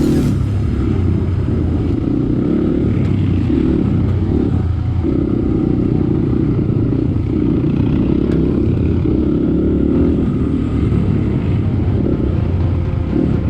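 Dirt bike engine running steadily under way, with a brief dip in level about five seconds in.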